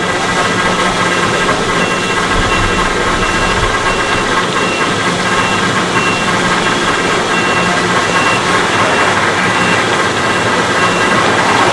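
Boeing 737-800's CFM56-7B jet engines running loud and steady, a rushing noise with a whine of several tones through it. A short high beep repeats in the background about three times every two seconds.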